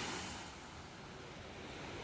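Ocean waves washing on a shore: a loud wash fades away early on, leaving a low rush that slowly builds again toward the end.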